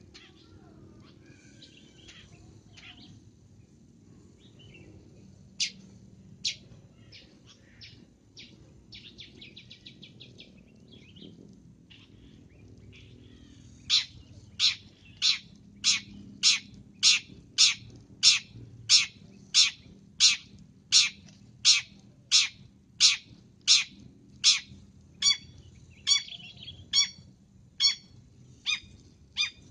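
Long-tailed shrike calling. Scattered sharp notes and chatter give way about halfway through to a steady run of loud, harsh notes at about one and a half a second, which quicken near the end.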